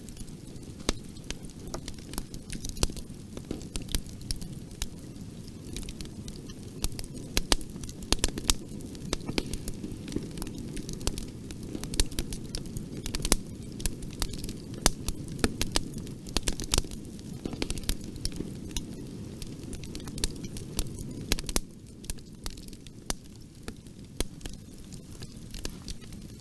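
Wood fire crackling in a fireplace: irregular sharp pops and snaps over a low, steady rumble of the flames. The pops come thickest through the middle and thin out, a little quieter, near the end.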